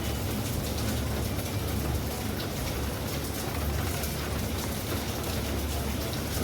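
Steady storm rain: an even hiss of falling rain with faint scattered drop ticks over a constant low rumble.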